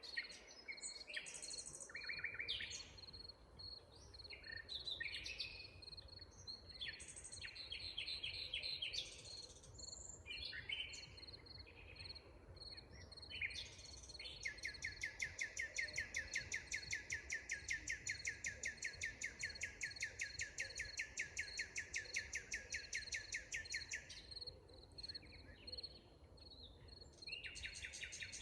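Forest birds singing: assorted short calls and chirping phrases, then from about halfway in one bird's long rapid trill of several notes a second, lasting about ten seconds. A faint steady high-pitched buzz runs underneath.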